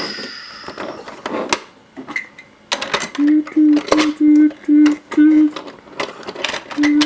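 Clicks and rattles of diecast and plastic toys being handled, then a run of six short honk-like tones of one pitch, and a longer held tone near the end that lifts slightly in pitch as it stops.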